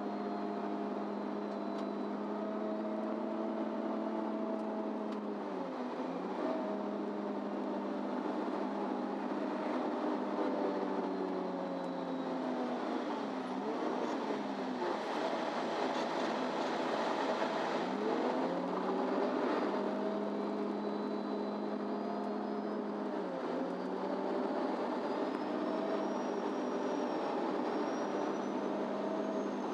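Diesel engine of a MAN Lion's City Ü (NÜ 323) intercity bus heard from inside the bus while driving, running at a steady pitch over road noise. The engine note dips and recovers briefly a few times, with a longer drop and climb in the middle.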